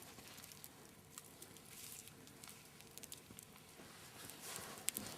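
Faint crackling of a small wood campfire, with scattered small snaps and one sharper snap near the end.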